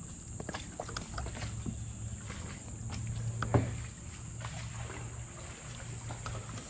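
Steady high chirring of crickets and other insects, with a few light clicks and one louder knock about halfway through.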